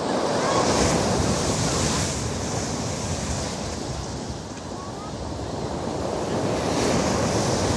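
Storm surf breaking on a pebble beach: a wave crashes about a second in and another near the end, with a lull of rushing water between, and wind buffeting the microphone.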